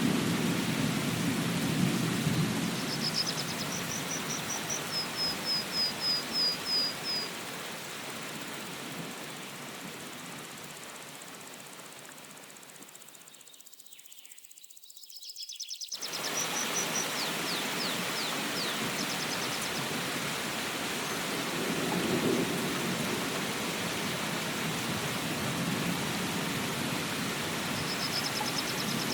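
Steady rain hissing, with low rolls of thunder near the start and again about two-thirds of the way through, and a small bird chirping in quick runs of short notes. About halfway through the rain fades down, then comes back suddenly a couple of seconds later.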